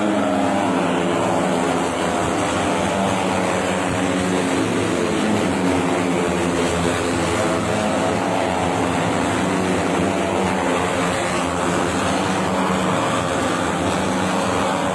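MotoGP racing motorcycle engine running at high revs, its pitch slowly rising and falling.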